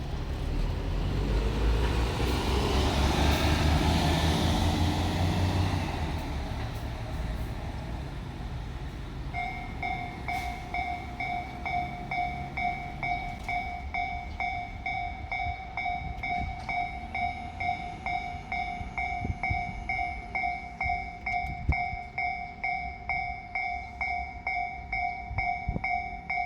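A diesel railcar runs past with its engine rumbling, the sound swelling and then fading over the first several seconds. About nine seconds in, a Japanese level-crossing warning bell starts ringing its repeated electronic clang and keeps going.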